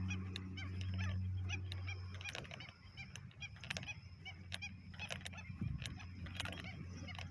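Many birds calling with short, repeated chirps, over a low steady hum that fades out after about two seconds.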